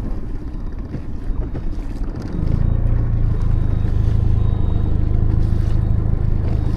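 Outboard motor of a small boat running at a steady speed, with wind and water noise. About two seconds in, its low drone comes in louder and then holds steady.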